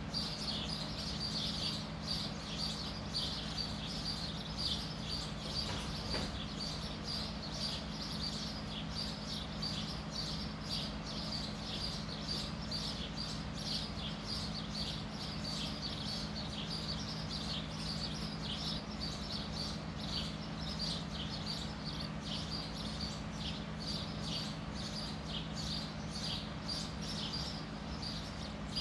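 Bird-like chirping: a continuous stream of short, high chirps, several a second, over a steady low hum.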